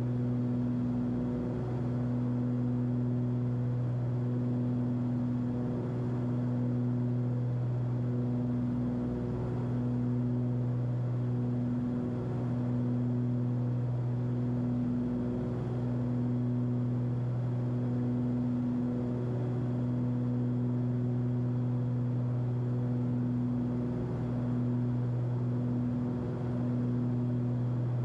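Cessna 340's two six-cylinder engines and propellers droning steadily at climb power inside the cabin, with a slow throb that swells and fades every second or two, the beat of two propellers turning at slightly different speeds.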